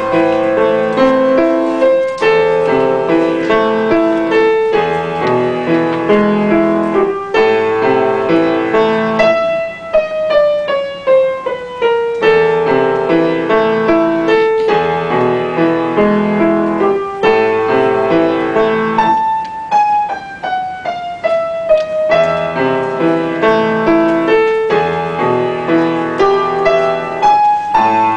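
Solo piano music: steady repeated chords, with two long descending runs about ten and twenty seconds in.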